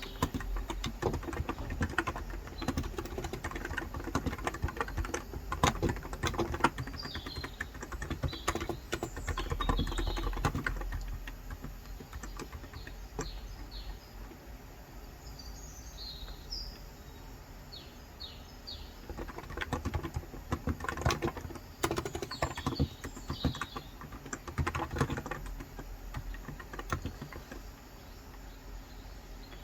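Typing on a Cox Endeavor electro-capacitive tenkeyless keyboard with light 35 g switches, in two spells of quick key clicks with a lull in between. Small birds chirp in short high calls, heard most clearly during the lull.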